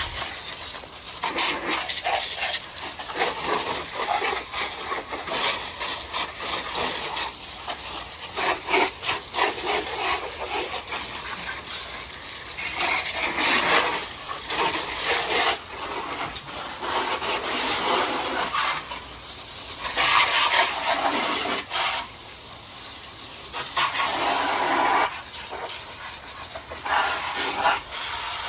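Hose spray rinsing a motorcycle: a steady hissing rush of water hitting the bodywork, swelling and fading as the spray moves over different parts of the bike.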